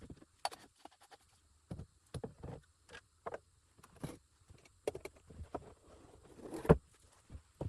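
Irregular light knocks and clicks, several a second, with one heavier thump near the end.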